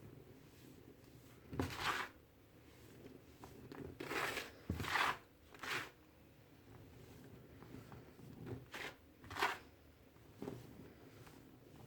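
Red-dyed baking soda with glitter being crumbled and crushed, giving a series of short, dry crunches at irregular intervals.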